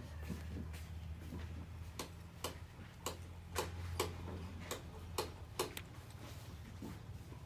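A run of sharp, irregular clicks or light taps, about two a second through the middle, over a steady low hum.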